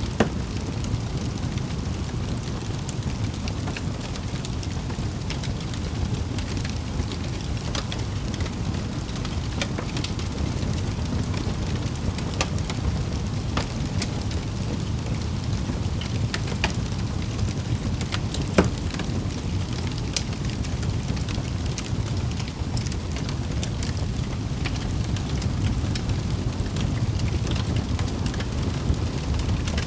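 Wood fire crackling in a fireplace: a steady low rumble of flames with scattered sharp pops and snaps, one louder pop a little past the middle.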